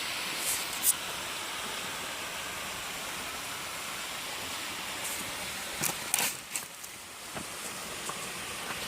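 Waterfall water rushing in a steady wash of noise, broken by a few short sharp clicks, mostly past the middle.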